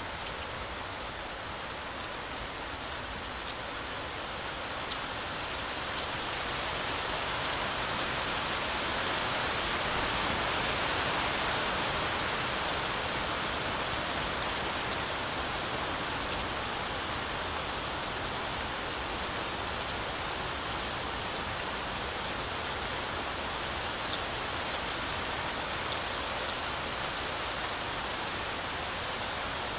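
Heavy, continuous rain falling through a forest canopy, a dense steady hiss with scattered drop ticks. It swells a little louder about ten seconds in, then eases back.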